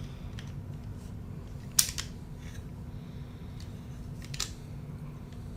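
Small plastic Lego pieces clicking as they are handled and sorted: a sharp click just under two seconds in, another right after, and one more a little past four seconds, with fainter ticks between.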